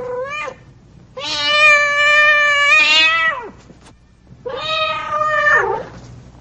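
Cat meowing: the tail of one meow, then a long drawn-out meow of about two seconds, then another that drops in pitch as it ends.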